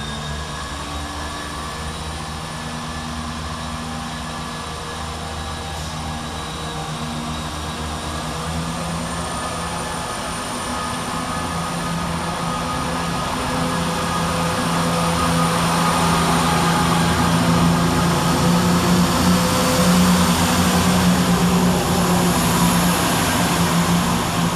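A ScotRail Class 170 Turbostar diesel multiple unit pulling away, its underfloor diesel engines giving a steady note. The engine sound grows louder through the second half.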